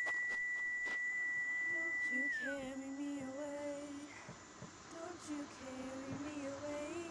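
A high whistled note held for about two seconds, ending in a short downward slide; then a voice hums a low, slow tune.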